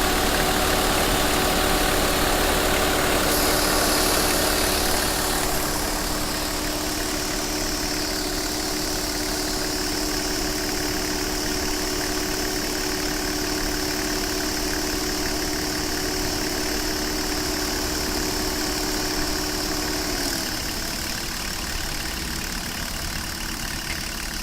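BMW 525tds with its electric radiator fan running over the idling turbodiesel engine: a steady hum with hiss, and about twenty seconds in the hum drops in pitch as it slows.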